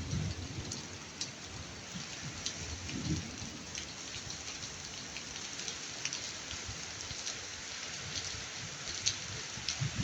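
Steady rain falling, with scattered sharp drip ticks, and a short low rumble of thunder about three seconds in.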